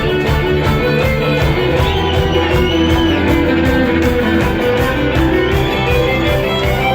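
Rock band music in an instrumental passage led by guitar, over a steady beat.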